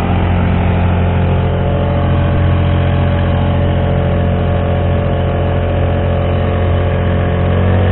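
Honda GX35 35cc four-stroke engine driving a kayak, running steadily at cruising throttle, its pitch rising a little near the end.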